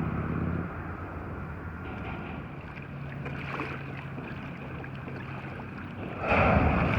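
Steady low engine hum over wind and water noise on the open river, with a louder rush of wind or water noise starting about six seconds in.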